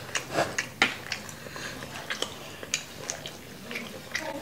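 A person chewing and biting into a slice of pizza close to the microphone: irregular mouth clicks and smacks.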